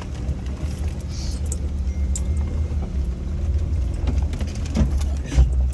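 Jeep engine running with a steady low rumble as it works over rough off-road trail, with scattered rattles and knocks from the vehicle and one louder thump near the end.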